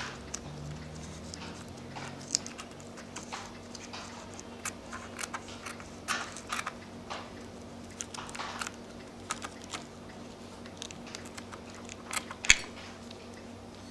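Scattered small clicks, taps and paper rustling from hands working the parts of a cuckoo clock bellows, with one sharp knock a little before the end.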